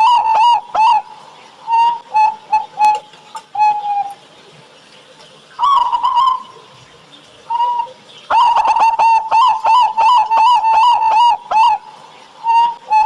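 Local Indonesian perkutut (zebra doves) cooing with a thick, heavy voice: quick runs of short notes, then slower, spaced notes ending in a longer drawn-out coo. The longest runs come at the start and again about eight seconds in, with short pauses between phrases.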